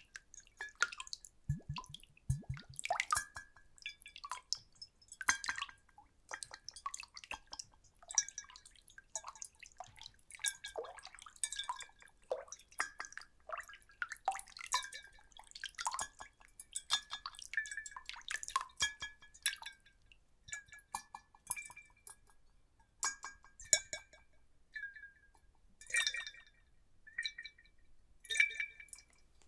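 Water splashed and sloshed in glass bottles: a quick, irregular patter of small splashes and drips, many with a faint glassy ring.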